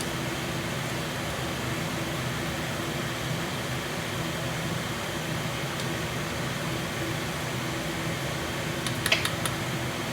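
Noisy kitchen exhaust fan running steadily with a low hum, and a few sharp clicks about nine seconds in.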